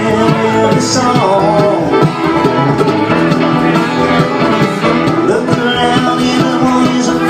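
Live bluegrass string band playing, plucked acoustic string instruments such as guitar and banjo.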